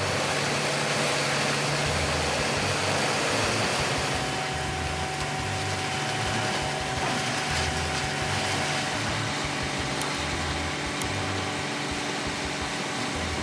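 Bandit Beast 2680 grinder running: a steady, loud machine noise of engine drone and rushing material, with a low throb that swells and fades every second or two.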